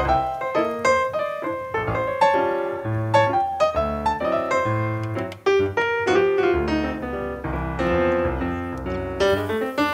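Background piano music, a melody of struck notes over lower bass notes.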